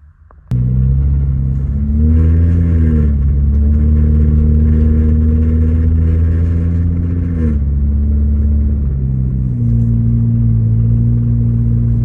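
Toyota Matrix four-cylinder engine running through its exhaust, starting abruptly about half a second in. It speeds up about two seconds in and holds there, drops back to idle near seven and a half seconds, then speeds up again near nine and a half seconds.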